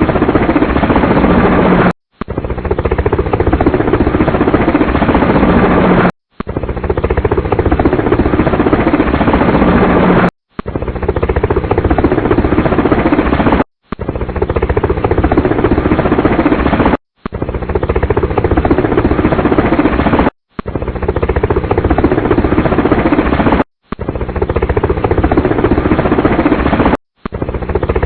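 Helicopter rotor and engine noise, a loud steady din, broken every three to four seconds by brief silent gaps where clips are spliced together.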